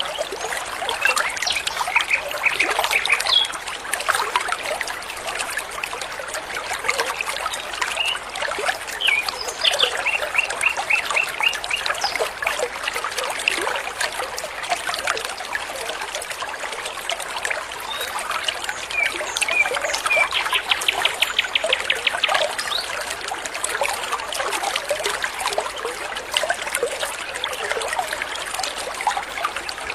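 Water trickling steadily over stones in a stream, with songbirds calling over it in several short series of quick repeated notes, one a fast trill about two-thirds of the way through.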